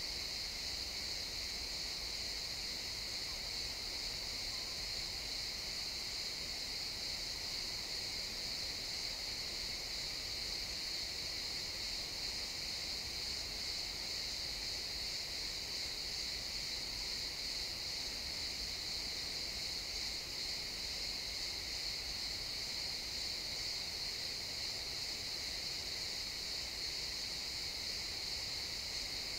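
A chorus of crickets chirping, merging into one steady high-pitched trill with no breaks.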